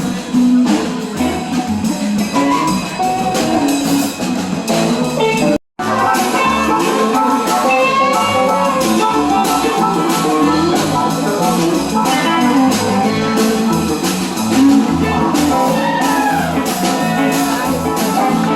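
Live band music: guitar over a drum kit, playing steadily, with a split-second break about six seconds in.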